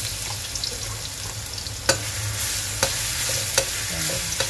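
Food sizzling in hot oil in a metal wok, stirred with a metal spatula. The spatula knocks against the pan four times, about once a second, in the second half.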